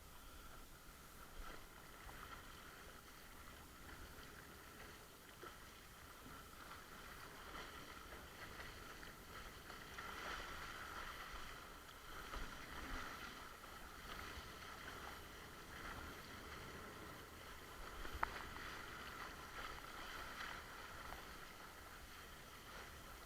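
Faint, steady rush of water from a windsurf board moving over the water, swelling a little midway, with one sharp click near the end.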